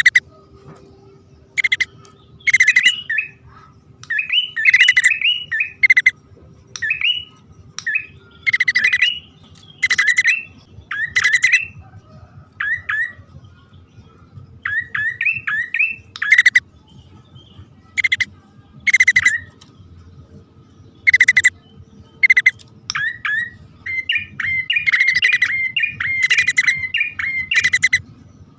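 Prenjak (prinia) lure calls, male and female: short bursts of sharp chirps and rattling notes repeated every second or two, with a quick run of calls near the end.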